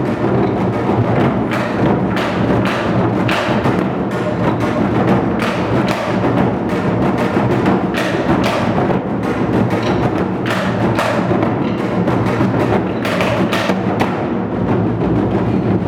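Moduembuk, a set of Korean barrel drums (buk) of different sizes, played by an ensemble in dense, continuous drumming with no break.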